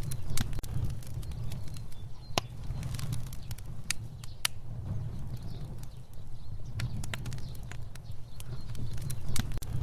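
Fire burning: a steady low rumble of flames with sharp crackles and pops at irregular intervals.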